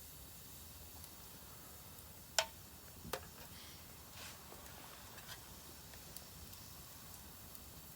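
Firewood burning in a Solo Stove Campfire fire pit, crackling: a sharp pop about two and a half seconds in, a second a moment later, then a few faint ticks over a quiet steady background.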